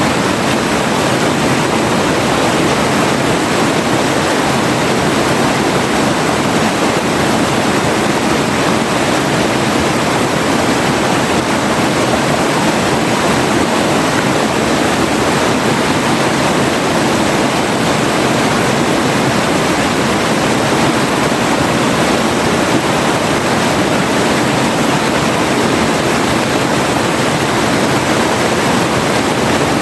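Forest river water rushing steadily, an even, unbroken rush of flowing water.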